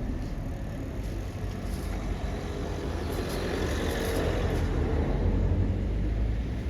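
A road vehicle passing close by, its engine and tyre noise swelling to its loudest a little after the middle and easing off near the end.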